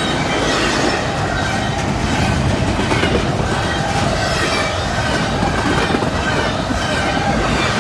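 A long freight train's cars rolling steadily past at close range, a loud continuous noise of wheels on rail with faint high ringing tones above it.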